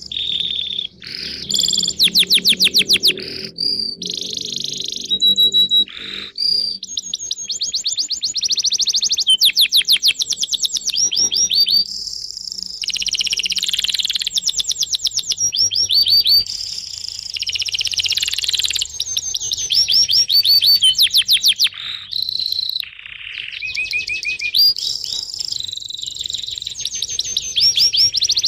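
Several birds chirping and singing at once, with fast trills of rapidly repeated high notes in bursts of about a second, overlapping almost without a break.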